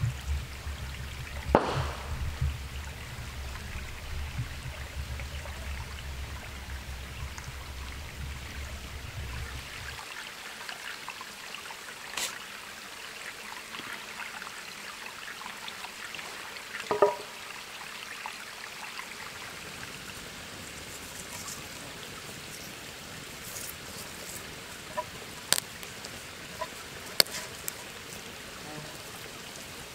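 Steady rush of flowing stream water, with a low rumble that stops abruptly about a third of the way in and a few scattered sharp clicks and knocks, some with a short ringing tone.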